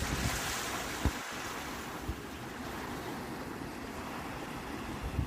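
Sea waves washing onto the shore, a surge of surf in the first two seconds that then eases, with wind buffeting the microphone in low thumps, the sharpest about a second in.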